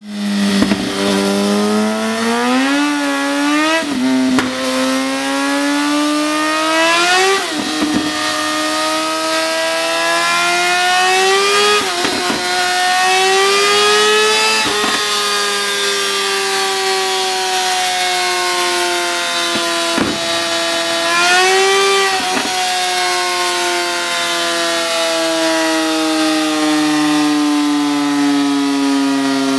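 Suzuki GSX-R 1000's inline-four engine revving hard on a rolling-road dyno. The pitch climbs in steps with a short dip at each of four upshifts, then sinks slowly over the second half, with one brief rise and fall a little past two-thirds of the way.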